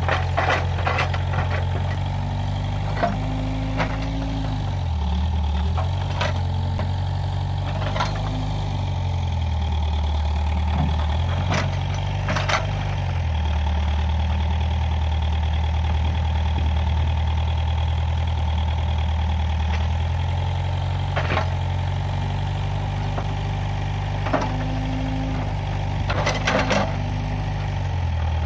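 Case 580G backhoe loader's diesel engine running, its pitch dropping and recovering several times as it bogs under load. Scattered sharp knocks come through the engine sound.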